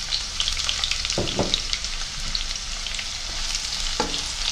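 Sliced onions and green chillies sizzling in hot oil in a nonstick wok: a steady hiss with small crackles. A spatula stirring gives short knocks against the pan about a second in and again near the end.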